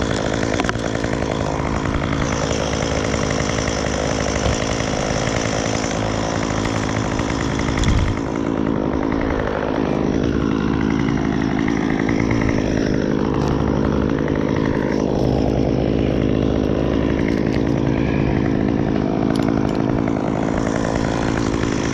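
Chainsaw running throughout, with a brief thump about eight seconds in, after which its pitch wavers up and down for a few seconds.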